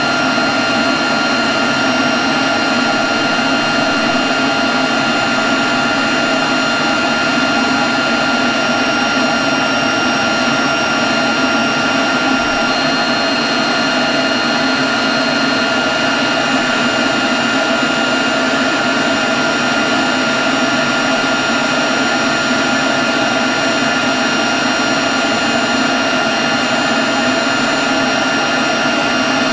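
Leaf blower running steadily at one constant speed: a rush of blown air with a steady high whine over it.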